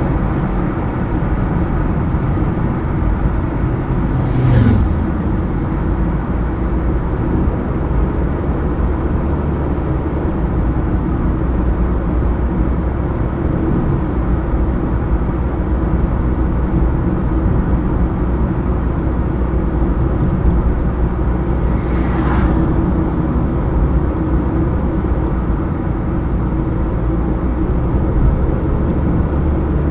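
A car driving along a highway: steady engine hum and tyre noise on the road, with two brief swells of noise, about four seconds in and again near twenty-two seconds.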